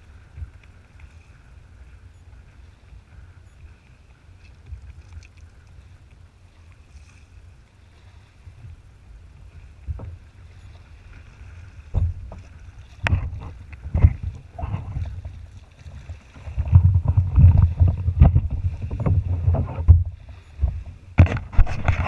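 Kayaking sounds on open water: a low wind rumble on the microphone at first, then a run of sharp knocks from about halfway, building to loud heavy thumps and clatter near the end.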